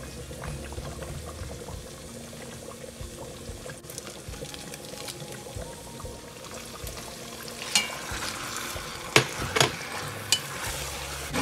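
Sizzling of onions, garlic and ginger sautéing in oil in a Dutch oven. In the second half, raw chicken thighs go in and a wooden spoon stirs them, with several sharp knocks and clatters against the pot.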